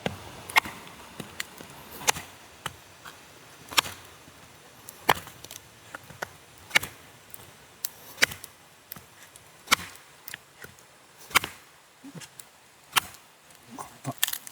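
Firewood being split for a campfire with a hatchet or blade, about nine sharp chops roughly every second and a half, with lighter taps between them.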